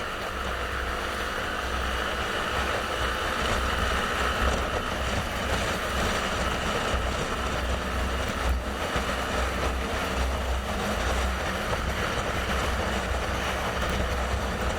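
Steady wind and road noise from a motorcycle on the move, with heavy low wind buffeting on the microphone.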